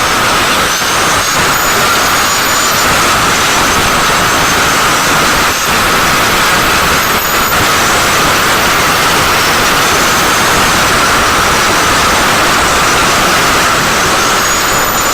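A workshop power tool running without a break: a loud, steady rushing hiss with a faint, slightly wavering high whine, as from an air-driven sander, grinder or paint spray gun working on the bumper.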